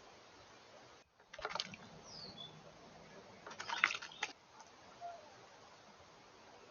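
Small birds at a bird bath: two short bouts of quick fluttering splashes, a couple of seconds apart, with a brief falling chirp between them over a steady faint hiss.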